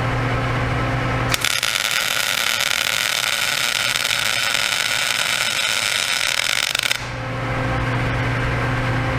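Electric arc welding on a steel plow: the arc strikes with a sharp click about a second and a half in and sizzles and crackles for about five and a half seconds, then stops. Before and after the bead a steady electrical hum from the welding machine is heard.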